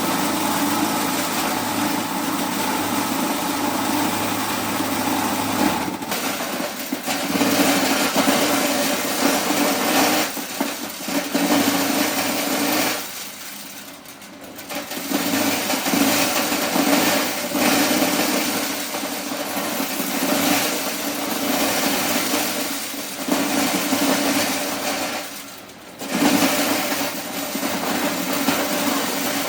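Motorized corn sheller running steadily with a loud hum and rattling hiss, dipping briefly twice, about halfway through and again near the end.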